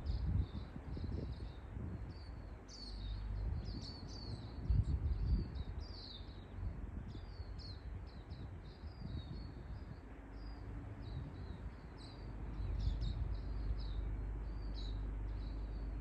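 Small birds chirping, many short high chirps in quick succession, over a low rumble that swells about five seconds in and again near the end.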